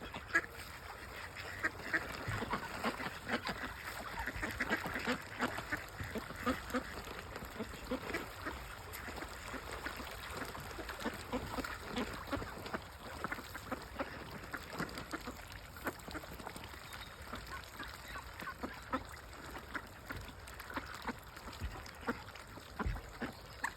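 A flock of ducks quacking and calling irregularly throughout, many birds at once, gathered to be fed.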